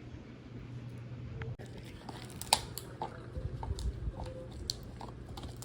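Dog chewing on a hard chew such as a pig ear, making irregular crunches and clicks that start about a second and a half in.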